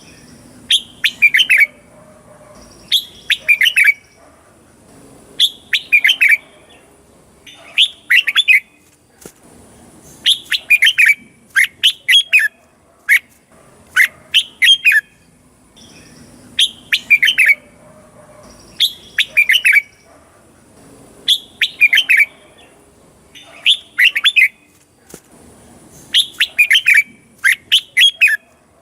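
Red-whiskered bulbul singing: short, clear phrases of a few quick whistled notes, one phrase about every two seconds.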